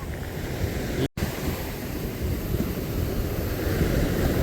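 Wind buffeting the microphone over the wash of sea surf, with a split-second dropout about a second in.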